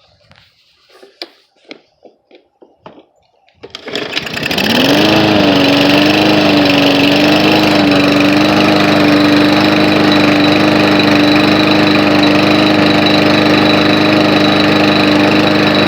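Briggs & Stratton lawn mower engine catching about four seconds in, after a few clicks and knocks, and running steadily with its carburetor freshly cleaned and the air filter off. Its speed wavers for a few seconds after it catches, then settles.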